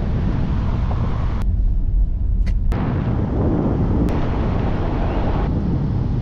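Car driving along a road, a heavy low rumble of tyres and engine that changes abruptly a few times.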